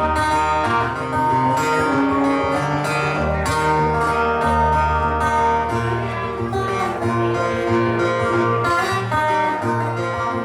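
Guitar playing an instrumental break in a blues song: picked notes ringing over low bass notes, with no singing.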